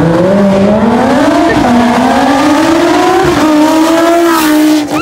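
A performance car's engine accelerating hard as it drives off, its pitch climbing. It shifts up once about a second and a half in, then climbs again and holds steady before fading just before the end.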